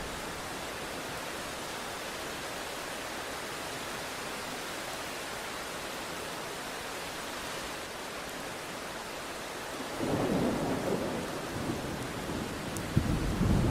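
Steady rain falling, then rolling thunder: a low rumble swells up about ten seconds in, and a louder crack and rumble breaks near the end.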